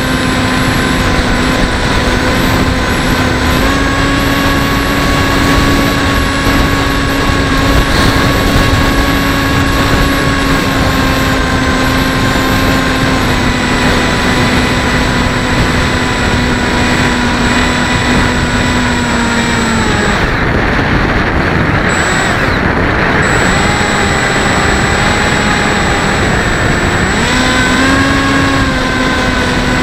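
Bixler 1.1 RC plane's electric motor and pusher propeller whining steadily, heard from the camera on board, over a heavy rush of wind across the microphone. About twenty seconds in the throttle comes back and the whine drops lower and fainter, then rises again near the end as the throttle is opened.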